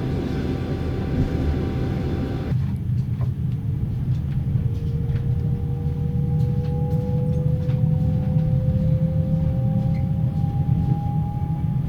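Passenger coach running, heard from inside a compartment: a steady low rumble with wheel clatter. About two and a half seconds in the sound changes abruptly to a closed-in rumble. Over it the coach's axle-driven generator whines in a tone that rises slowly as the train picks up speed.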